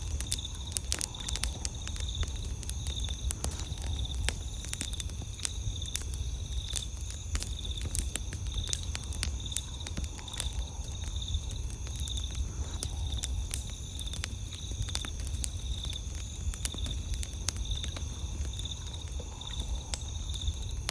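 Campfire crackling with frequent sharp pops over a steady low rumble, while night insects trill continuously, one in a fast, even pulsing rhythm.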